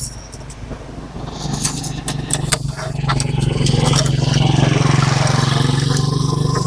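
A motor engine runs, growing louder over the first few seconds and then holding at a steady low pitch, with scattered clicks and crunching over it.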